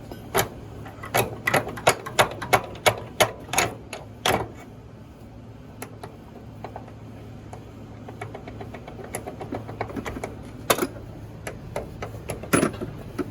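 Hand ratchet wrench clicking while loosening bolts on a car's front end: a run of sharp metallic clicks about three a second at first, then a stretch of faster, fainter ticking with a couple of louder clacks near the end.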